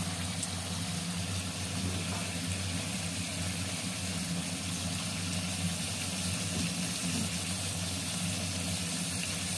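Potato slices frying in oil in a pan, an even, steady sizzle, over a steady low hum.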